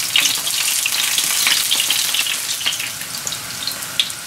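Battered courgette strips and courgette flowers shallow-frying in hot oil in a non-stick pan: a steady sizzle full of small crackles and pops, easing a little in the last second.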